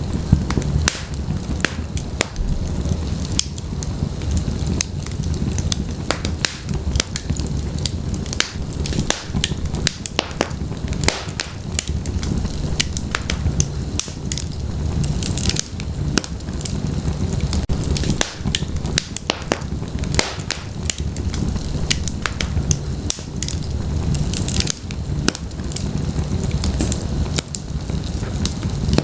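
Wood fire of burning logs crackling in a fireplace: a steady low rumble of the flames with many sharp, irregular pops and snaps.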